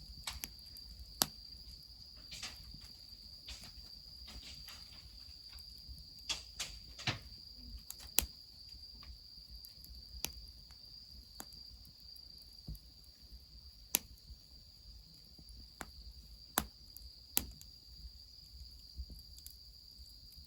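Wood fire crackling, with irregular sharp pops a second or more apart. Under it runs a steady, high-pitched insect trill.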